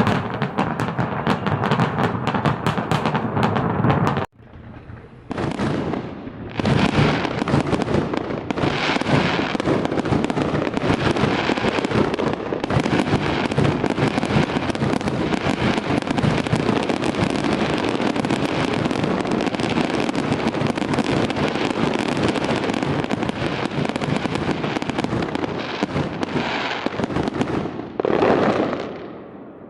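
Firecrackers going off in a dense run of rapid cracks. This stops abruptly about four seconds in, then gives way to a long, continuous crackle that fades out near the end.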